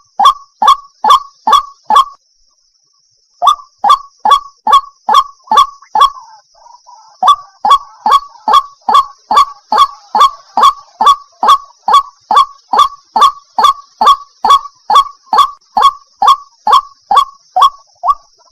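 White-breasted waterhen calls: a loud, harsh note repeated about two to three times a second in long runs, broken by a short pause about two seconds in, over a faint steady high hiss. It is a lure recording of the call, played to draw waterhens out of cover.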